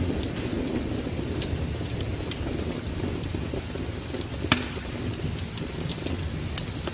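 Wood fire in a fireplace crackling, with scattered sharp pops over a steady low rumble; the loudest pop comes about four and a half seconds in.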